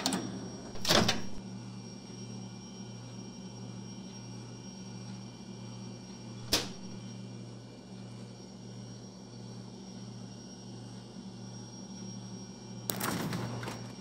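Metal doorknob turning and a door being worked open at the start, with a louder clunk about a second in. A single sharp click comes about six and a half seconds in, and another short rattling noise comes near the end, all over a steady low hum.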